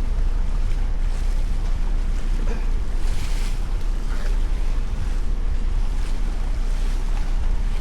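A crab boat on the water: a steady, loud, deep rumble with wind buffeting the microphone and water washing.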